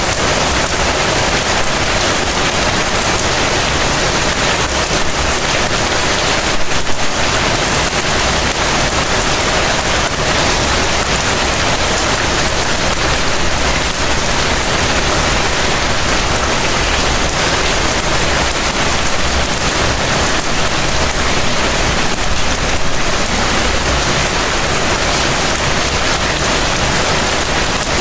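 Heavy rain falling steadily, a dense even hiss of rain on surfaces, with a brief swell in level about seven seconds in.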